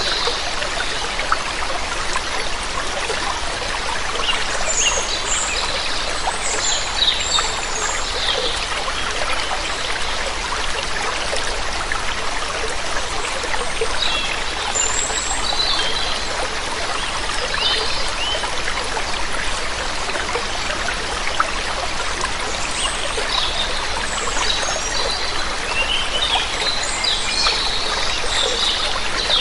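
Steady rush of falling and flowing water, with small birds chirping now and then above it in short bursts of high calls.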